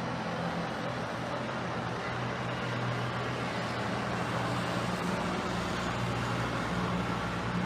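An engine running steadily, a low hum over a wash of noise, like traffic or a motor nearby.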